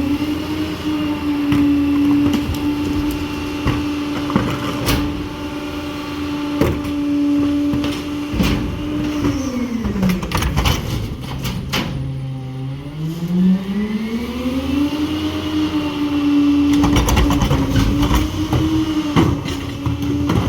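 Garbage truck engine running at a steady raised speed. About ten seconds in it drops to a low idle, then revs back up a few seconds later and holds, with repeated clanks and knocks throughout.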